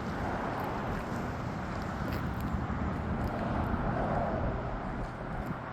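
A motor vehicle's engine running steadily, a low rumble with a faint hum.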